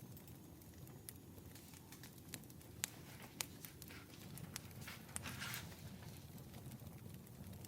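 Faint crackling fire ambience: a low steady rumble with sharp pops every so often, and a brief rustle about five seconds in.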